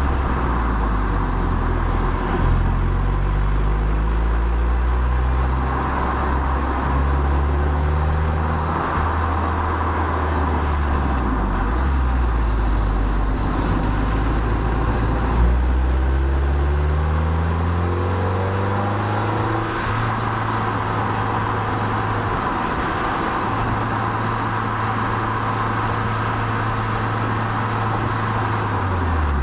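Toyota MR2 roadster's mid-mounted 1.8-litre four-cylinder engine heard on board while driving, with steady wind and tyre noise. The revs climb and fall back several times, then hold steady for the last ten seconds or so.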